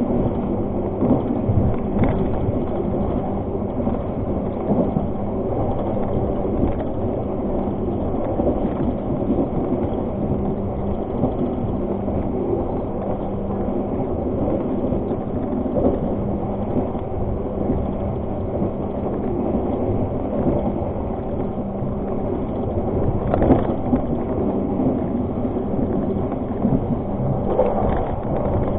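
Argo Parahyangan passenger train running along the track: a steady rumble of wheels and carriage with a low, steady hum beneath it.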